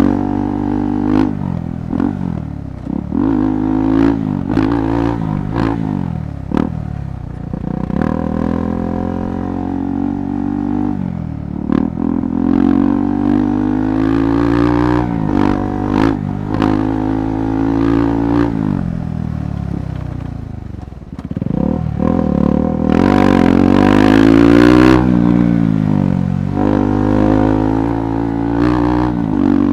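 KTM 390 Adventure motorcycle's single-cylinder engine revving up and easing off again and again while ridden off-road, with scattered clattering knocks. The revs drop low about 21 seconds in and climb again, and a burst of hiss rises over the engine for about two seconds shortly after.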